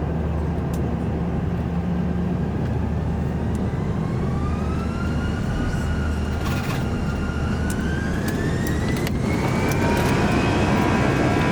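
Airbus A340-300's CFM56 turbofan engines spooling up to takeoff power, heard from inside the cabin: a steady low rumble under a whine that rises in pitch from about four seconds in, then levels off and grows louder near the end.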